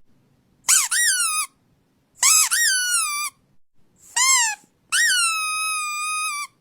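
Four high-pitched squeaks with silence between them, each rising and then falling in pitch. The last one is the longest and holds a steady pitch before dropping off.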